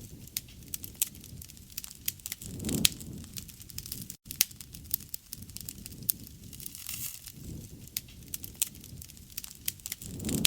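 Wood fire crackling, with frequent sharp pops and snaps over a low rumble. The rumble swells twice, about three seconds in and near the end. The sound cuts out for an instant about four seconds in.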